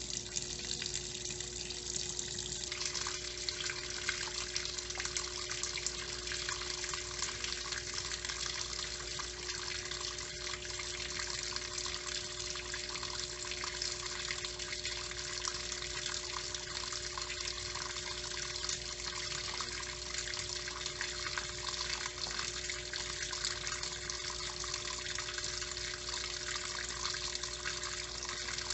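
Electrolux LTE09 washing machine filling with water for the rinse: a steady gush of water pouring into the tub, with a faint steady tone underneath.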